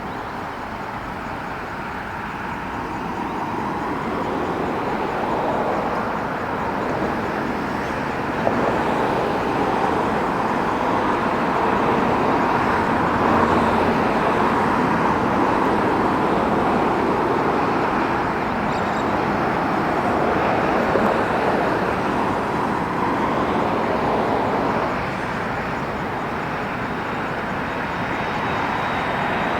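Airbus A330 airliner's jet engines on arrival, a steady noise that builds over the first dozen seconds and then holds.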